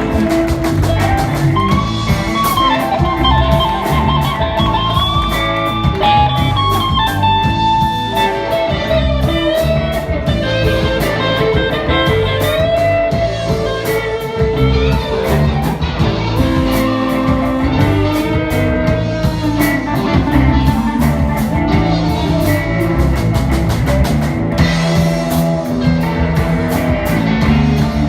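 Live blues band playing an instrumental passage: a lead guitar line with bent, sliding notes over a drum kit beat.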